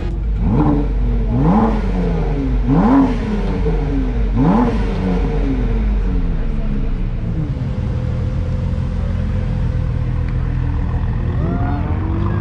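A car engine revved hard four times in quick succession, each rev rising sharply and falling back, then settling to a steady run, with another rise in revs near the end.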